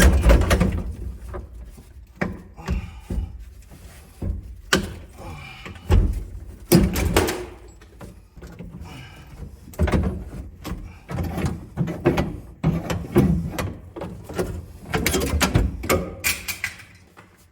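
Irregular metallic knocks, clanks and short rattling runs of hand tools working on the old Datsun pickup's steel cab and body bolts, loudest in a few bursts of quick clicks.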